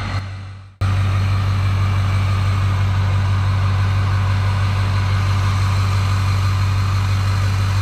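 Vehicle engine running steadily with a low hum; the sound fades out briefly and comes back abruptly, louder, just under a second in.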